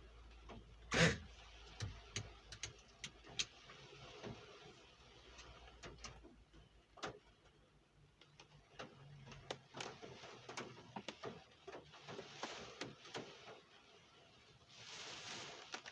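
Rain dripping: irregular drops ticking and tapping on a hard surface over a faint hiss, with one louder knock about a second in.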